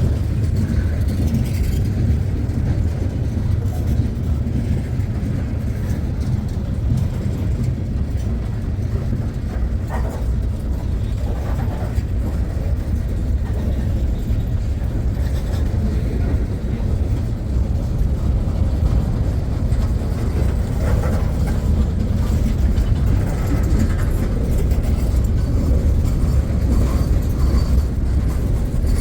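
Long freight train rolling past, a steady low rumble of steel wheels on rail with faint scattered clicks.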